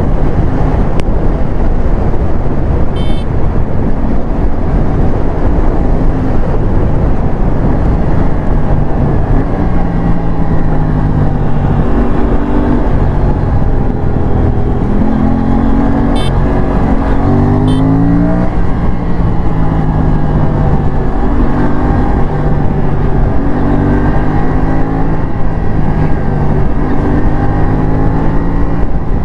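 Aprilia RS457's 457 cc parallel-twin engine heard from on board while riding, its note rising and falling repeatedly with throttle changes and gear changes. Heavy wind rush on the microphone almost buries it for the first several seconds.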